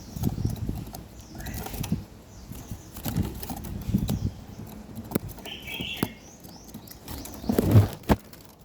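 A small bird's wings fluttering, with irregular rustles and light knocks, a single short chirp a little past halfway, and a louder bump near the end.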